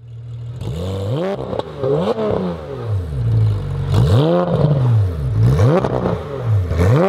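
A car engine revving in a series of throttle blips, its pitch rising and falling sharply five or six times.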